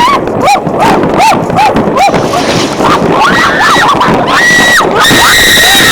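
People whooping and screaming at New Year's fireworks: a run of short rising-and-falling hoots, then several high, held shrieks about a second long, over the bangs and crackle of fireworks.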